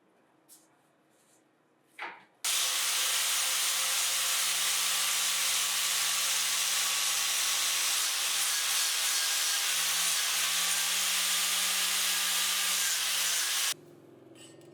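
Power tool working material for a rubber clamping ring: a steady, loud abrasive noise over a low motor hum, which starts abruptly about two and a half seconds in and stops abruptly near the end.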